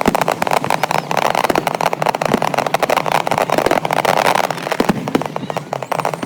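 Fireworks going off in rapid succession: a dense crackle of many quick bangs that thins out to scattered pops near the end.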